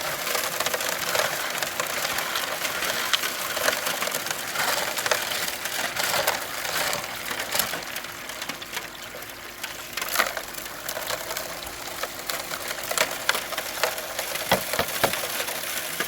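Gravel and small rocks rattling and scraping continuously, with many small clicks and cracks, over a faint steady mechanical hum.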